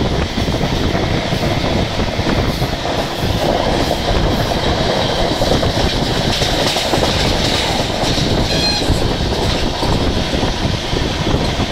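Passenger train running at speed, heard from on board: a steady rumble and rattle of the wheels on the rails.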